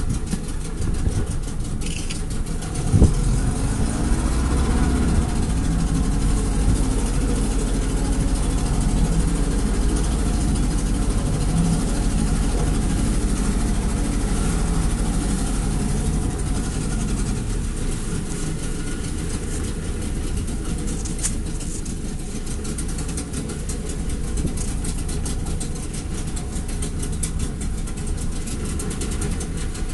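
Glass-bottom boat's engine running steadily at low speed, a low rumble, with one knock about three seconds in.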